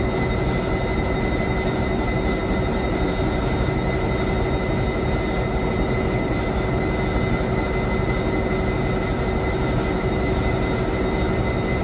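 Irish Rail 201 Class diesel locomotive idling at a standstill: a steady engine drone with a few held tones running through it.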